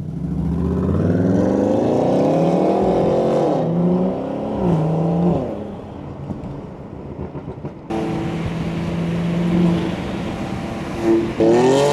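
BMW 340i's turbocharged B58 inline-six under hard acceleration, its exhaust note climbing through a gear, dropping at an upshift about four seconds in and pulling again briefly before settling to a steadier drone; near the end it starts climbing again.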